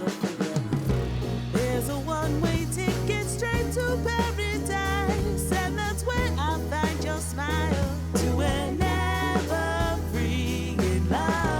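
A pop song: a singer's voice with vibrato over bass and drums.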